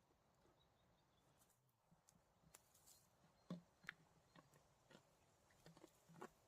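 Near silence with a few faint, irregular clicks and taps, the two strongest about three and a half seconds in.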